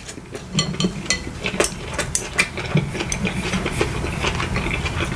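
Close-miked eating sounds: chewing and slurping a brothy meal, with many short wet mouth clicks over a steady noisy hiss.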